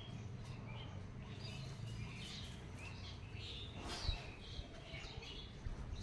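Small birds chirping: many short, irregular calls at different pitches, over a low steady background rumble.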